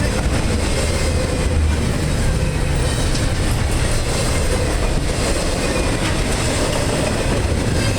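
Norfolk Southern double-stack container train rolling by: a steady, loud rumble of steel wheels on rail.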